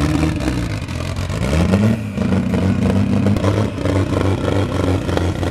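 Turbocharged BMW E46 M3 drift car's engine running at low speed, with a short rise in revs about one and a half seconds in.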